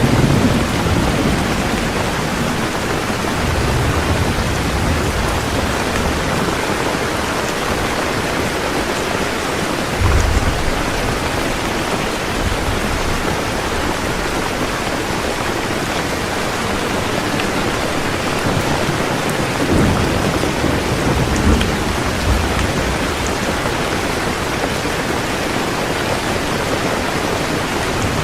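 Heavy rain pouring steadily, with low rolls of thunder at the start, about ten seconds in, and again around twenty seconds in.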